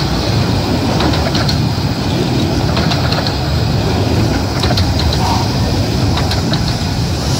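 A 15-inch-gauge miniature train's carriages rolling slowly past: a steady low rumble with scattered sharp clicks.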